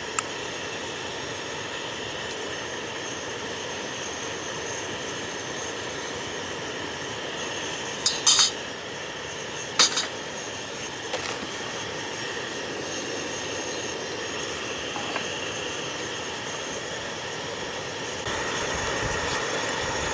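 Cooking utensils clinking against a camp pot in two short clatters, about eight and ten seconds in, over a steady rush of wind that grows louder near the end.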